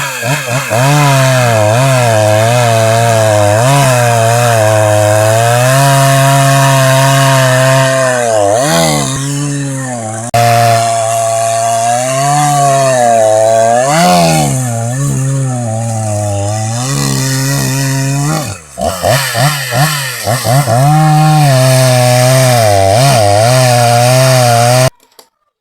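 Chainsaw cutting wood, its engine pitch dipping and rising again and again as the chain bites and clears. It cuts off suddenly near the end.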